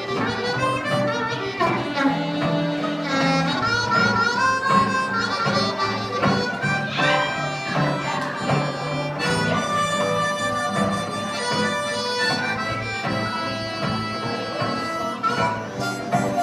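Harmonica playing a solo over live band accompaniment, with no singing.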